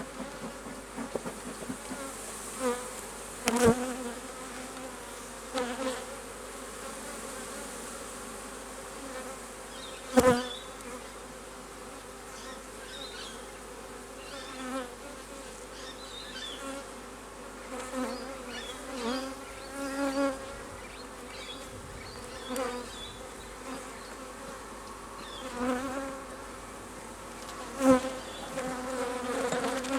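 Honey bees buzzing all around an opened hive, their pitch wavering as individual bees fly close past; the colony is disturbed, described as not happy, as the brood box is worked. A few sharp knocks, the loudest about three and a half, ten and twenty-eight seconds in.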